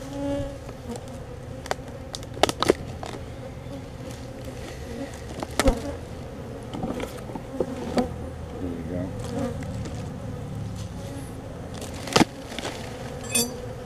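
Honeybees buzzing steadily around an opened colony, with a few sharp knocks and clicks from handling, the loudest about two and a half, six and twelve seconds in, and a quick run of ticks near the end.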